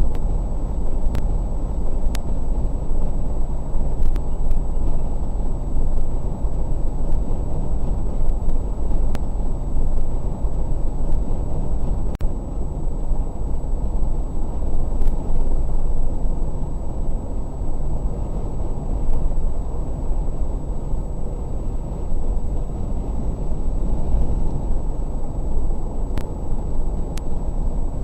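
Steady car road and engine rumble heard from inside the car through a dash cam microphone, with a few faint clicks and a thin high whine from the failing recorder.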